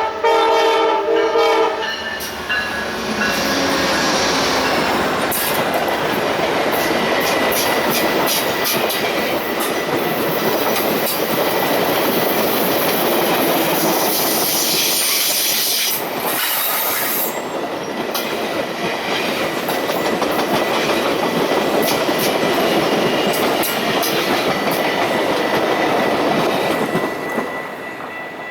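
A train horn sounds for about the first two seconds. Then the Talgo Series 6 passenger cars roll past at speed: a steady rush of wheels on rail, with quick clicks over the rail joints and a thin, steady high whine. The sound fades near the end as the train goes by.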